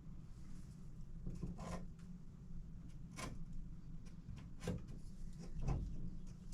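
A few light knocks and short scrapes, about four spread over several seconds, as a light fixture's mounting plate is handled and shifted against the bathroom wall, over a low steady hum.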